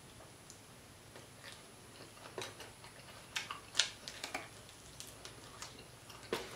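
Close-miked chewing of crispy fried croaker fish: soft, scattered crunches and mouth clicks as the crisp fins and small bones are nibbled, mostly in the second half.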